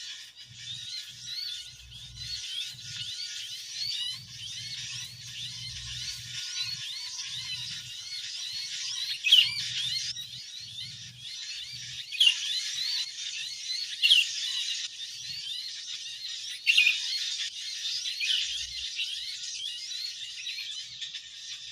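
Many small birds chirping and twittering in a busy, overlapping chorus of short high calls, with a few sharp louder calls about 9, 12, 14 and 17 seconds in.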